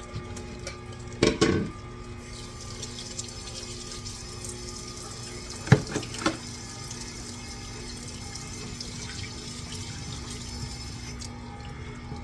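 Electric food grinder running steadily with a motor hum while grinding raw chicken. There is a loud knock about a second in and a sharp double clack around six seconds in.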